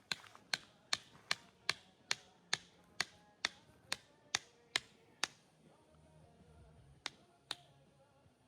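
A run of sharp, evenly spaced taps, about two and a half a second, stopping about five seconds in, then two more taps near the end.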